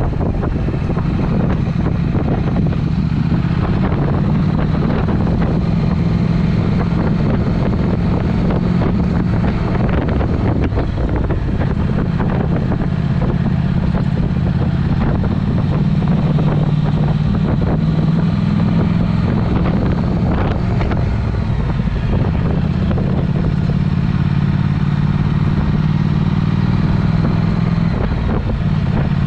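Triumph Speed Twin's parallel-twin engine running under way through a Vance & Hines aftermarket exhaust, its note holding fairly steady with small rises and dips in pitch. Wind rushes over the microphone.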